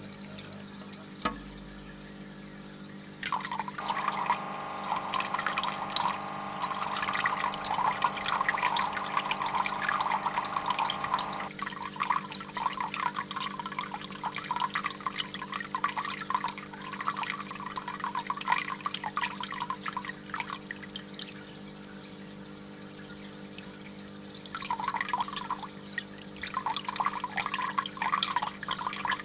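Water splashing and trickling, with a steady low hum underneath.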